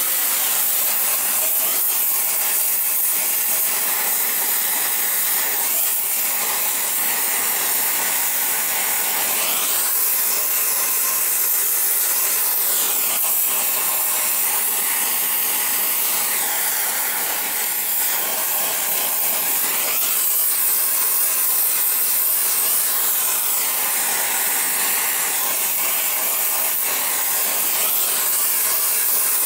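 Gas torch flame hissing steadily, its tone slowly wavering as the flame is played over a seized, rusted exhaust manifold stud to heat it cherry red and break it free.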